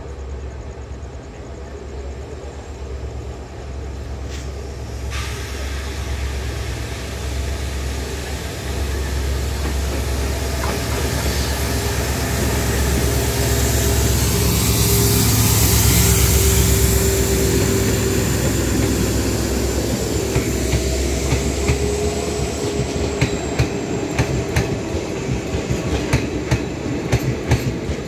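An oncoming passenger train passes at close range. The locomotive's low rumble grows to its loudest about halfway through and then eases off, and the coaches follow with a quick, even clickety-clack of wheels over rail joints.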